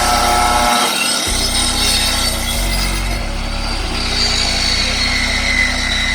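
Powered saw cutting felled logs into firewood, running steadily under load.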